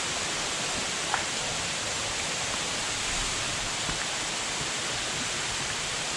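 Steady rush of a nearby waterfall or stream, an even hiss with no change in level. A single sharp click stands out about a second in.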